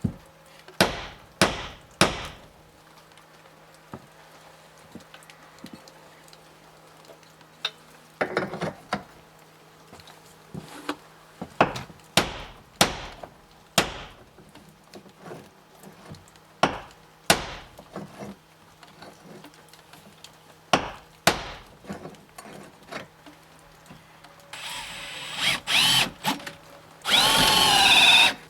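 Sharp hammer-like blows on wood, four in quick succession at the start and then more spaced out. Near the end a power drill runs in two short bursts, the second loud with a shifting whine.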